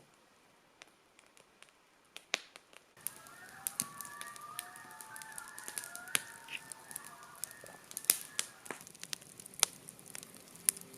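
Campfire crackling with sharp pops throughout. From about three seconds in, a flock of geese honking, with many overlapping calls, dies away a couple of seconds before the end.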